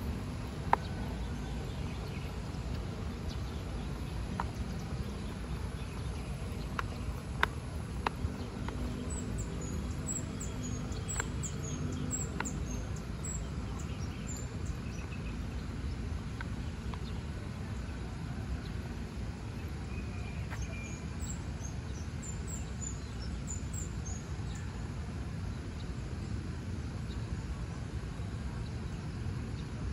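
Birds chirping in short high-pitched calls, in two spells, over a steady low rumble, with a few sharp clicks in the first ten seconds or so.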